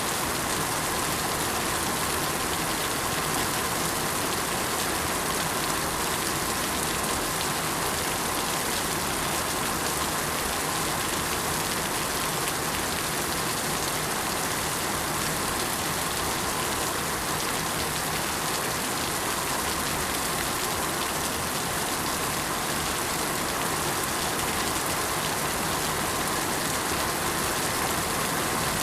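Steady rain falling on surfaces, an even, unbroken hiss of raindrops.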